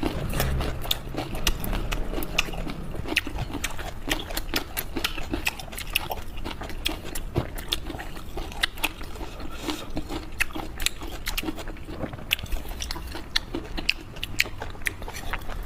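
Close-up chewing and biting of a lettuce-and-perilla-leaf wrap of raw hairtail sashimi: many small irregular crisp crunches and wet mouth clicks.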